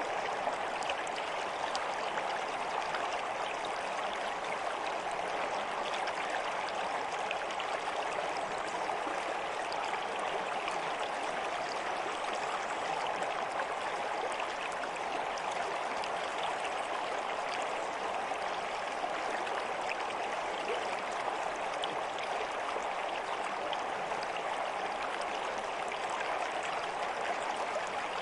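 Steady running water of a stream, an even rushing flow with fine trickles and splashes, unchanging throughout.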